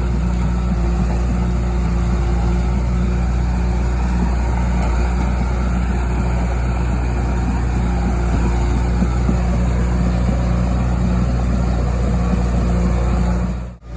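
John Deere 450G crawler dozer's diesel engine running steadily with a deep, even drone. The sound cuts out briefly near the end.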